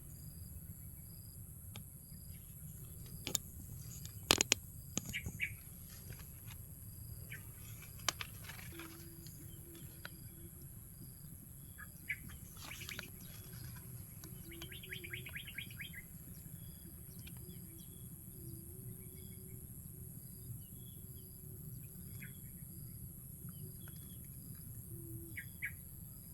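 Birds chirping and calling, with a short high peep repeating roughly once a second. A few sharp knocks come about three to five seconds in.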